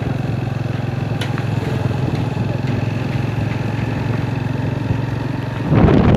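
Small motorcycle engine running steadily at cruising speed while being ridden. A man's voice starts near the end.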